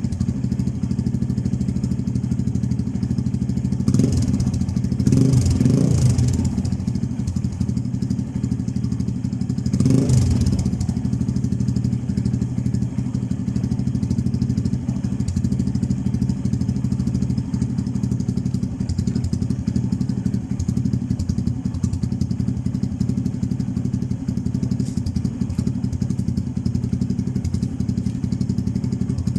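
Motorstar Easyride 150N's single-cylinder four-stroke engine idling steadily through a bullet-style aftermarket exhaust pipe. It is given short blips of throttle about four seconds in, around six seconds and again around ten seconds.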